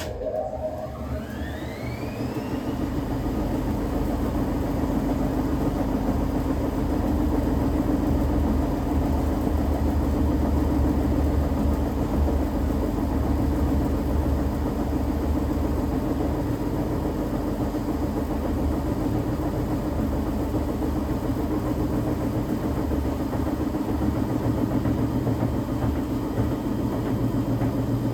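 Ipso TimeLine commercial washing machine starting its spin: the motor's whine rises over the first few seconds, then the drum runs at a steady speed with a loud low rumble. The drum bearings are worn, getting louder by the owner's account.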